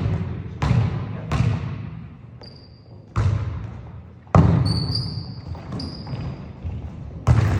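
A basketball bouncing hard on a gym floor about five times at uneven intervals, each thud ringing out in the hall's echo. Sneakers squeak sharply a few times in the middle.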